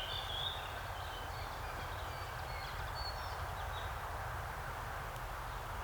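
Outdoor ambience: a steady low rumble and hiss, with a few faint short bird chirps in the first half.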